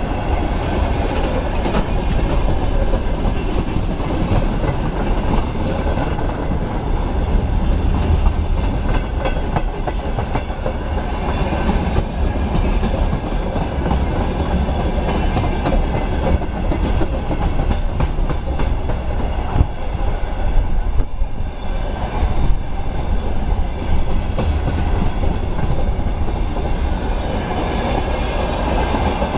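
Freight train's open gondola wagons rolling past, a steady rumble with the wheels clicking and clattering over the rail joints.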